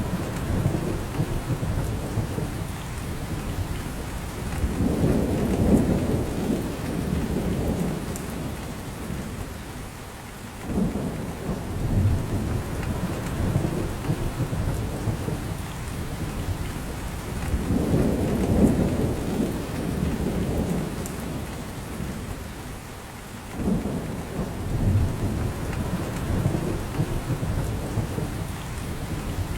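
Steady rain falling in a spruce forest and dripping from the branches, with a low rumble that swells and fades about every six or seven seconds.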